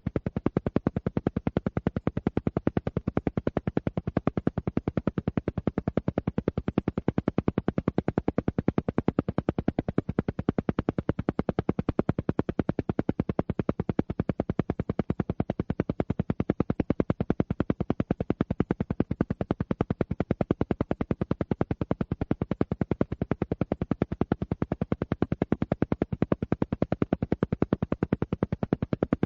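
Alpha-wave brainwave-entrainment audio: a fast, perfectly even train of pulses, many per second, repeating without change.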